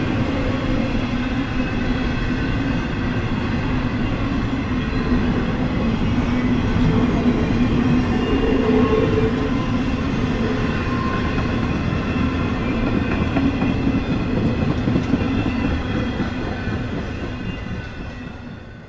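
N scale model freight train running on the layout track: a steady hum of motors and rolling wheels with light clicking over the rail joints, fading out near the end.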